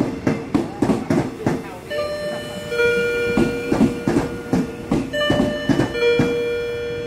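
Passenger train coaches rolling slowly past, wheels clicking rhythmically over rail joints, then high steel-wheel squeals at several pitches coming and going from about two seconds in.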